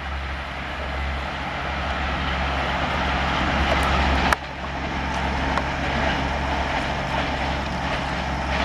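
WAP-7 electric locomotive and its train running past: a steady low hum under a rushing noise that grows louder for about four seconds, with a sharp click about four seconds in.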